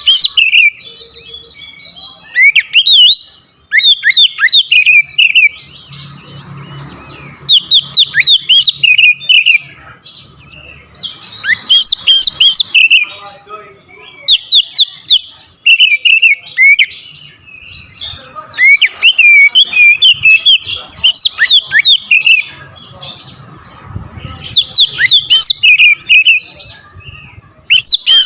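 Oriental magpie-robin (kacer) singing loudly in bursts of rapid, sweeping whistled phrases, a second to several seconds long, with short pauses between them. It is the hard, full-power song of a bird showing off its repertoire.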